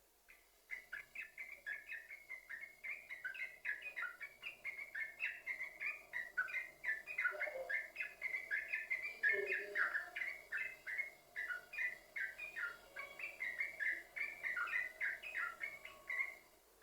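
Sooty-headed bulbul (trucukan) singing a long, rapid, unbroken run of chattering notes, the continuous 'sambung ropel' song. It starts about half a second in and breaks off shortly before the end.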